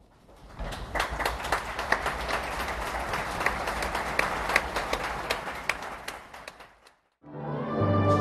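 Audience applause, a dense patter of many hands clapping that rises quickly and fades out after about six seconds. Near the end, orchestral music with brass starts abruptly.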